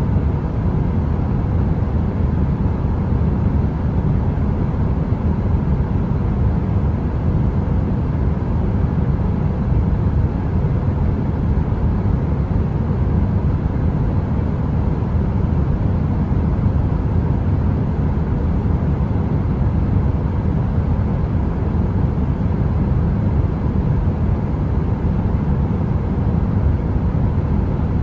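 A heater running: an unbroken, deep noise like brown noise, with a faint steady hum above it and no changes.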